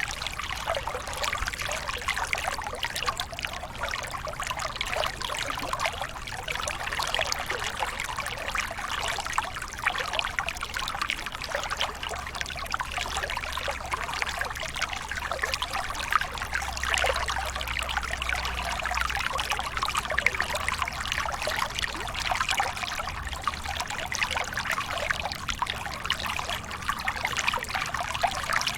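Waterfall splashing and trickling steadily, a light, even rush of falling water without deep rumble.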